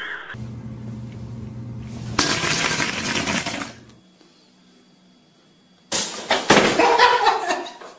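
A pop-up toaster pops suddenly about six seconds in, a sharp clack followed by nearly two seconds of loud clatter and noise. Earlier a separate loud noise lasts about a second and a half, and between the two there is a short quiet stretch.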